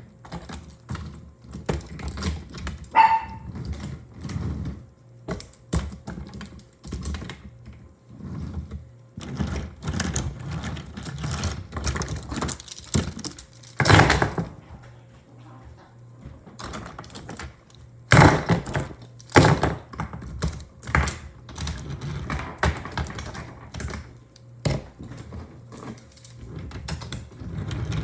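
Wooden toy train pieces clicking and clattering against wooden track, in irregular runs of sharp knocks with a few louder rattling bursts.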